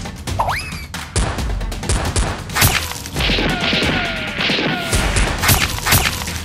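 Rapid volleys of gunshot sounds with sharp impacts throughout, and a noisy crash-like stretch in the middle.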